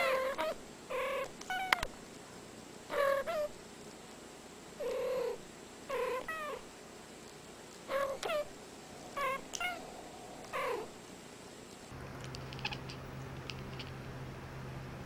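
Two domestic cats trading short, chirp-like meows, roughly one call a second, each call bending up or down in pitch. About twelve seconds in the calls stop and a steady low hum takes over.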